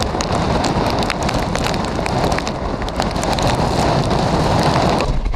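Hurricane wind and heavy rain: a loud, steady rush of wind rumbling on the microphone, with many sharp raindrop hits throughout.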